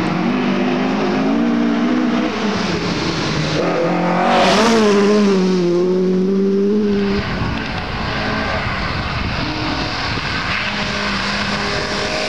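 Rally car at speed on a gravel stage, its engine revving hard. The note climbs, steps back at a gear change about two seconds in, and is loudest about four to five seconds in. It breaks off sharply about seven seconds in as the driver lifts, leaving a rough hiss with the engine fainter.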